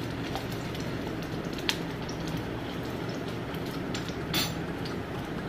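Bread-stuffed dahi bhalla patties shallow-frying in hot oil in a nonstick pan, a steady sizzle. A steel spoon clinks against the pan twice, the second time about four seconds in.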